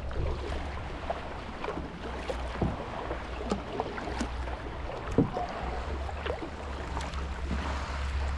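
Kayak paddle dipping into the water with small splashes and drips, over a low rumble.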